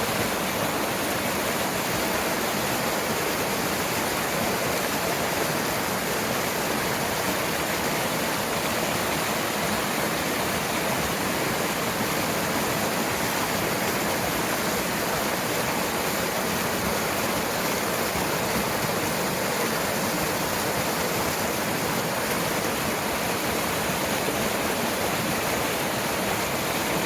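Mountain stream water rushing, a steady and fairly loud flow with no let-up.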